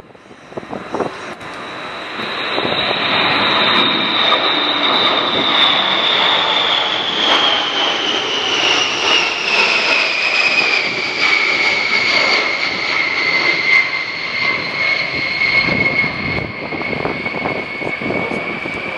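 A Boeing B-52H Stratofortress flies past with its eight Pratt & Whitney TF33 turbofan engines running. The jet noise builds over the first few seconds and stays loud, easing slightly near the end. A high engine whine falls steadily in pitch as the bomber passes.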